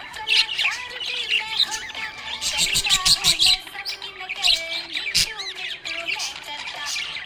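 Several budgerigars chirping and warbling together, a dense run of quick overlapping chirps and short gliding notes, busiest a few seconds in.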